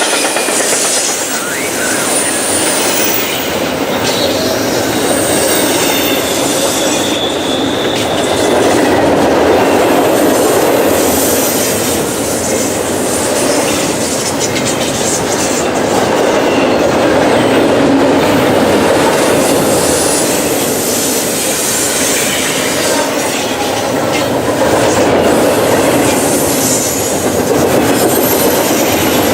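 Freight train cars rolling past on the track in a steady, loud rush of wheel and rail noise, with short high-pitched wheel squeals now and then.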